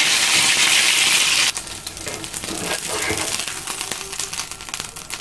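Chicken kebab patties frying in shallow oil in a grill pan. A loud steady hiss cuts off suddenly about a second and a half in, then crackling sizzle with small clicks and spatula scrapes as the patties are lifted from the pan.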